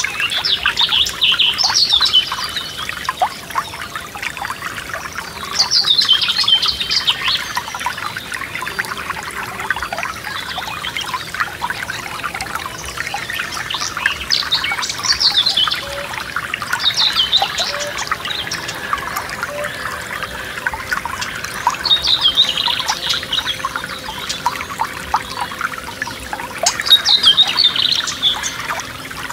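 Forest stream babbling and trickling over stones, with a songbird singing a short, bright phrase every few seconds.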